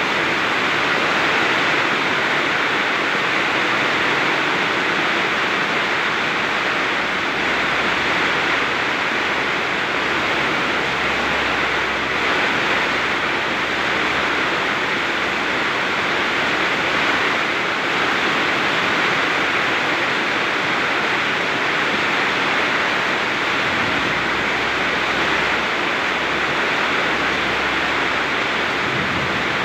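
Very heavy rain pouring steadily with strong wind, a dense unbroken hiss, with a low rumble swelling and fading underneath now and then.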